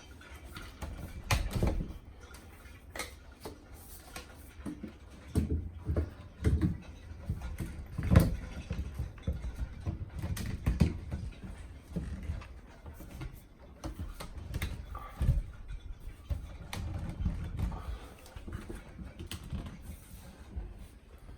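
Scattered knocks and bumps at irregular intervals over a low rumble, the loudest about eight seconds in.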